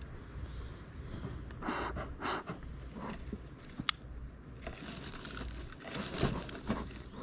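Dry material being crumpled and rustled by hand in irregular bursts, with a single sharp click about four seconds in.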